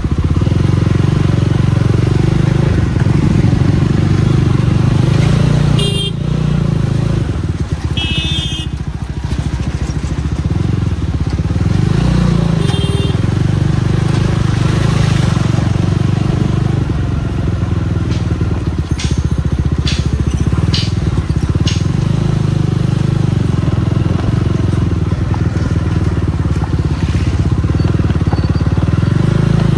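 Jawa 42 Bobber's single-cylinder engine running steadily under way, heard from the rider's seat, with a few short high-pitched beeps in the first half and some sharp knocks past the middle.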